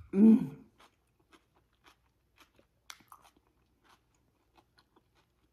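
A short closed-mouth 'mm' right at the start, then quiet wet clicks and small crunches of someone chewing a mouthful of coleslaw.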